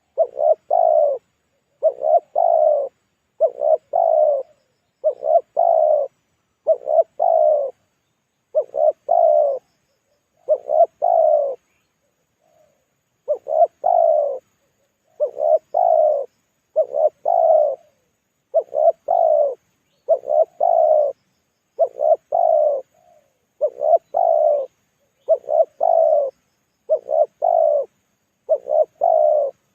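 Spotted dove (tekukur) cooing, a two-part coo repeated about every 1.7 seconds, with one longer pause about twelve seconds in.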